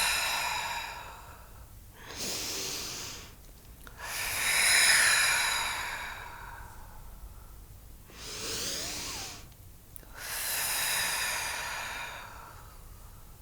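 A woman breathing slowly and deeply close to the microphone: long, audible breaths in and out, about five in all, each a second or more long with short pauses between, the loudest about five seconds in. These are meditation breaths, taken on the cue to breathe deeply.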